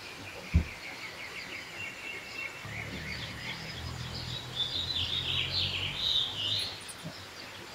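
Birds chirping and warbling, busiest in the second half, with a single sharp thump about half a second in and a low hum underneath for a few seconds in the middle.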